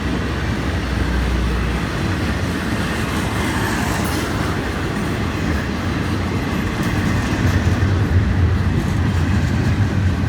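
Florida East Coast Railway intermodal freight train's cars rolling past, a steady rumble of wheels on rail that grows a little louder after about seven seconds.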